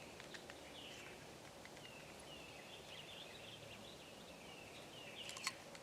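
Wild birds chirping and calling in short repeated phrases over faint outdoor background hiss. A few light clicks come just after the start, and a quick cluster of sharper clicks comes near the end.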